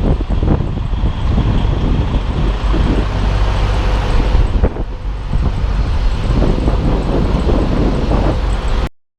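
Semi tractor-trailer running slowly while backing: a steady low engine rumble with frequent knocks and rattles. It cuts off suddenly near the end.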